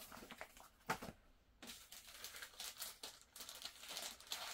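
Faint rustling of paper pages and the crinkle of a thin plastic sleeve as a manual is handled and a decal sheet in a clear plastic bag is picked up, with a sharp tap about a second in.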